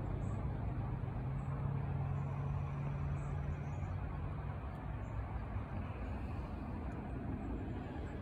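Steady low hum of an idling vehicle engine, with a low tone that fades out a little past halfway.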